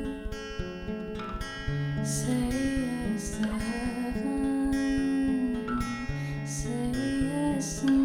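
A solo singer performing a slow song over strummed acoustic guitar, the voice holding long notes.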